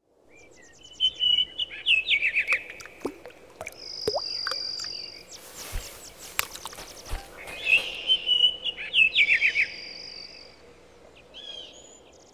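Several wild birds singing: one repeats the same quick chirping phrase twice, about 1 s and 8 s in, and another holds a thin high whistle for about a second, twice. A short rushing noise, with two dull thumps, comes in the middle.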